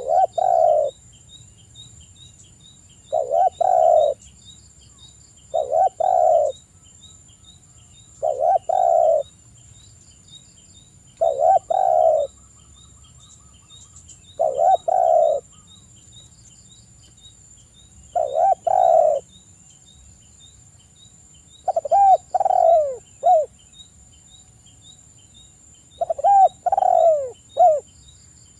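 Spotted dove (tekukur) cooing: a short phrase of coos repeated about every three seconds, the last two phrases longer with several falling notes. A faint steady insect whine and ticking run underneath.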